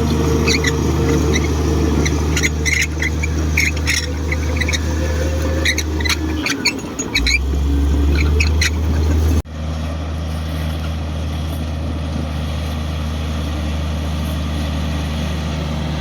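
Komatsu D58 crawler bulldozer's diesel engine running steadily, with high squeaks and clicks over the first nine seconds. About nine and a half seconds in the sound breaks off sharply, and only the steady engine drone continues.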